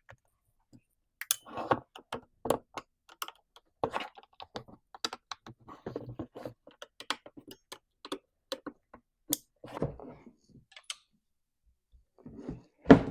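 Irregular small clicks, clinks and knocks of hand tools and chainsaw parts being handled on a workbench, with a louder knock near the end.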